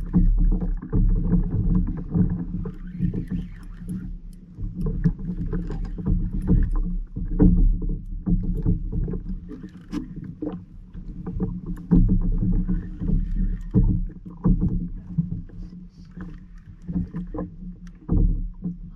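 Water and wind rumbling around a fishing kayak, with scattered knocks and clicks against the hull and gear.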